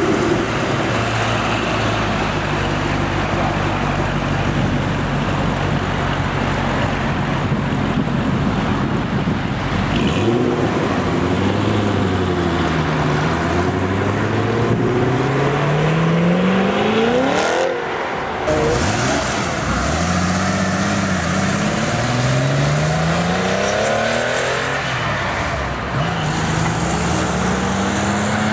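Chevrolet Corvette C6's V8 idling steadily, then accelerating hard about ten seconds in, its pitch climbing and dropping back with each upshift, five or six times.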